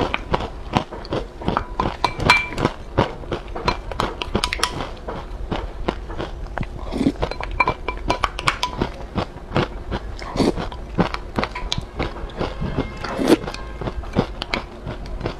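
Close-miked eating of crushed corn-grain cake soaked in milk: wet crunching and chewing, with scattered clicks and clinks as a wooden spoon scoops from a glass bowl.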